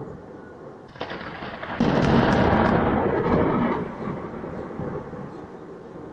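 Thunder: a crack about a second in that builds into a loud rolling rumble, dying away over the last couple of seconds.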